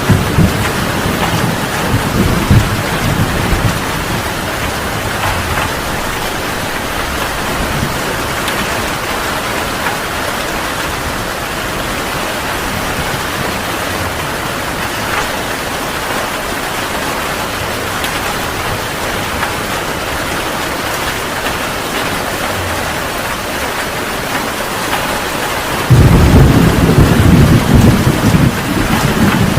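Heavy rain falling steadily in a thunderstorm. Thunder rumbles low at the start, fades, and then a sudden, loud rumble of thunder breaks in near the end.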